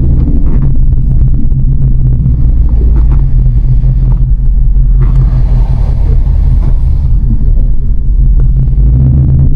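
A 2024 Ford Mustang GT's 5.0-litre V8 running with a steady, deep, low engine note. A rush of higher noise joins it from about five to seven seconds in.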